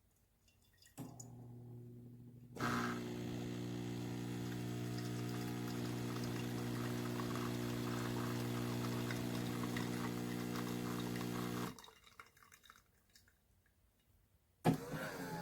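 Café Affetto automatic espresso machine's pump humming steadily with liquid pouring into the cup. It starts softly about a second in, turns louder a moment later, and cuts off after about nine seconds, followed by a few drips. Another sound starts abruptly near the end.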